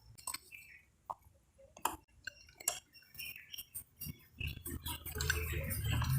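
Light metallic clicks and clinks of the clutch hub's washer, nut and hand tools being handled as the nut is fitted. The clinks are scattered at first, then turn into a denser, louder stretch of handling about four seconds in.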